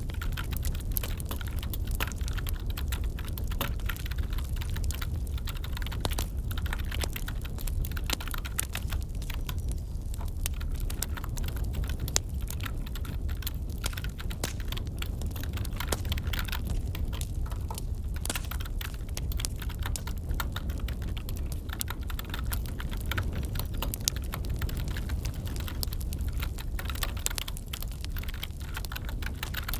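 Computer keyboard typing, irregular and continuous, over the crackle of a wood fire in a fireplace with a steady low rumble.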